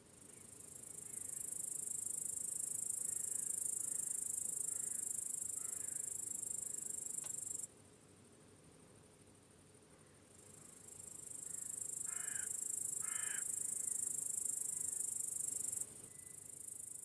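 Crickets chirping in a high-pitched, shrill, steady chorus that swells in, cuts off abruptly about halfway through, then swells in again and cuts off just before the end. A few faint, short, lower calls sound in between, two of them louder about twelve seconds in.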